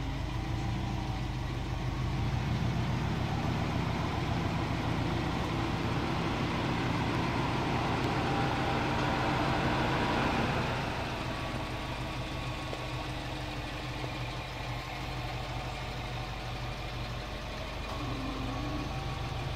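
2005 Subaru WRX STi's turbocharged flat-four engine idling with a steady low pulsing hum, louder in the first half and dropping off about halfway through.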